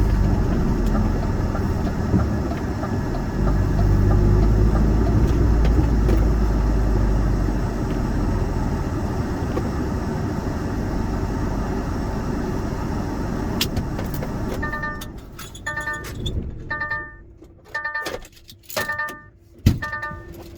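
Lorry's diesel engine running with a steady low rumble, then shutting off about sixteen seconds in. A run of short pitched beeps follows in the last few seconds.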